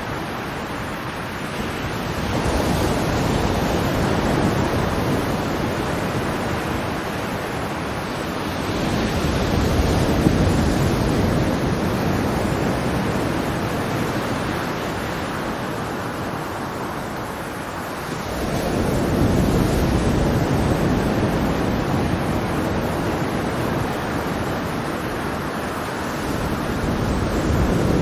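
Ocean surf: waves breaking and washing ashore in a continuous rush, with a fresh swell about every eight to nine seconds.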